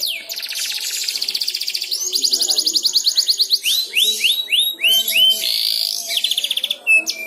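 Canary singing: fast, even trills of rapidly repeated notes and a run of slurred down-sweeping notes, switching from one phrase to the next every second or two.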